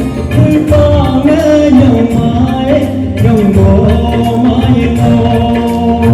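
A live song: a singing voice carrying a melody over an amplified band with a steady drum beat and heavy bass.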